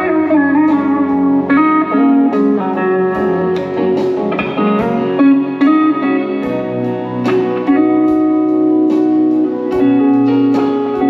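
Instrumental guitar playing in a slow blues style, plucked notes with some sliding pitches, settling into longer held notes over the song's ending.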